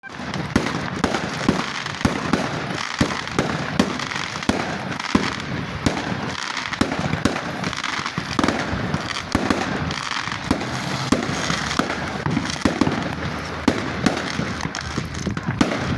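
Fireworks display going off: many sharp bangs and pops, one or more every second, over a continuous dense crackling.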